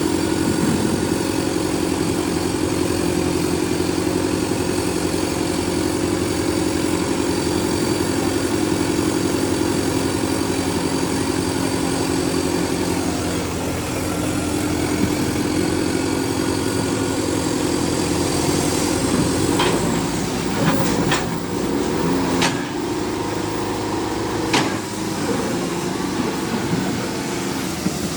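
Tractor diesel engine running steadily. Several sharp knocks come in the last third.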